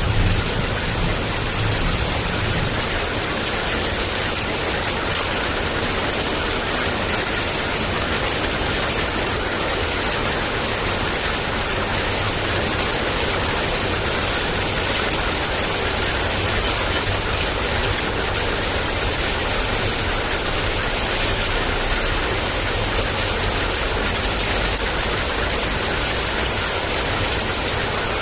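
Heavy rain falling in a steady downpour, an even hiss with no pauses. The low end of a thunder rumble dies away in the first couple of seconds.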